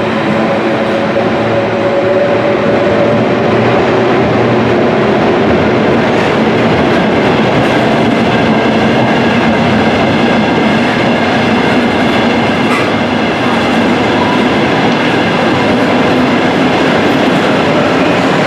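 London Underground engineering train, battery locomotives hauling open wagons, passing along a tube station platform: a loud, steady rumble and rattle of wheels on the rails.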